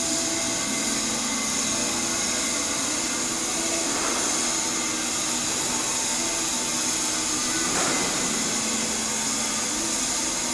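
Stick-welding arc burning an E7018 electrode during a cap pass, a steady hiss with a low steady hum under it.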